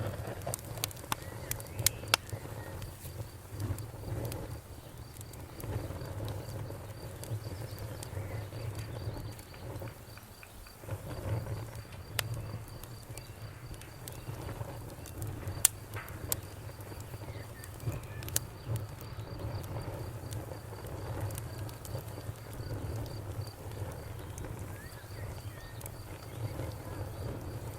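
Bonfire crackling, with scattered sharp pops and snaps over a low, steady rumble of flames. A cricket chirps throughout in a high, even pulse, pausing briefly about three-quarters of the way in.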